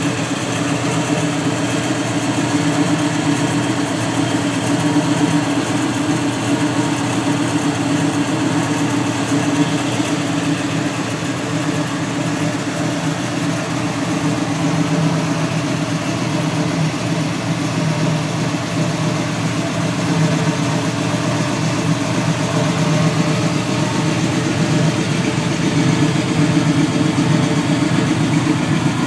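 The 1980 Chevrolet El Camino's 5.0 L V8, breathing through Hooker Competition headers, idling steadily.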